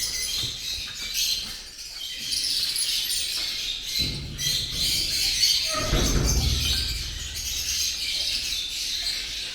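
Many caged lovebirds chattering together, with dense, overlapping high chirps. A low rumble joins in about four seconds in and is loudest around six seconds.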